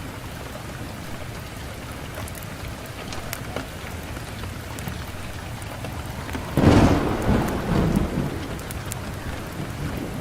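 Wood fire crackling in a fireplace: a steady hiss with many small pops and snaps. About six and a half seconds in comes a sudden loud, deep rumbling thump that dies away over a second or so.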